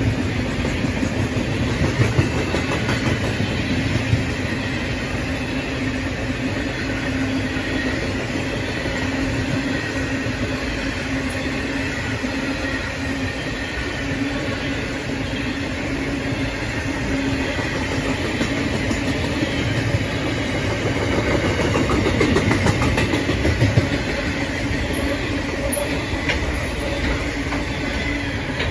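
Freight train wagons rolling past at speed: a continuous rumble with wheels clicking over the rail joints and a steady low hum beneath. There are a few sharp clanks, and it grows louder for a few seconds near the end.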